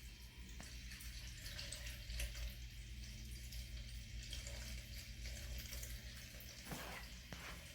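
Water running and trickling out of a portable washing machine's drain hose as it drains, faint, over a steady low hum.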